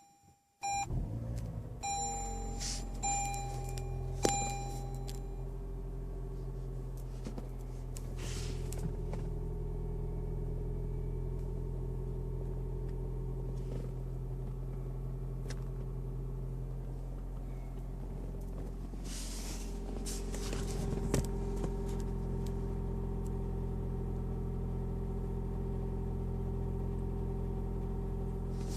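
Car engine starting about a second in, its revs settling from a brief rise into a steady idle hum, a running noise the owner calls not normal. A dashboard warning chime sounds four times in the first few seconds.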